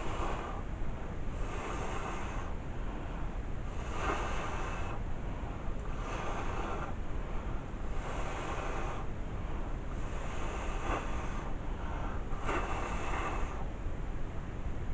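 Air being blown across wet acrylic paint in a Dutch pour, pushing the paint outward. It comes as about seven separate breathy bursts, each about a second long and roughly two seconds apart, over a steady low background hiss.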